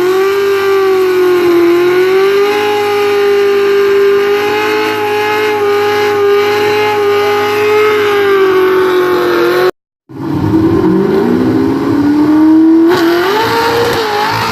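Foxbody Mustang race car engine held at high, steady revs for about ten seconds, then cutting off abruptly; it comes back revving up in a rising pitch and drops off near the end.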